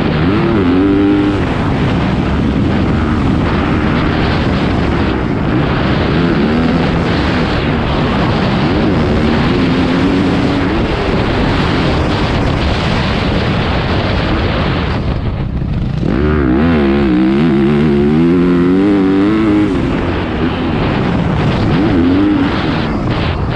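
Motocross dirt bike engine running hard around the track, its pitch rising and falling over and over as the throttle opens and closes through gear changes. It drops off briefly about fifteen seconds in, then picks up again.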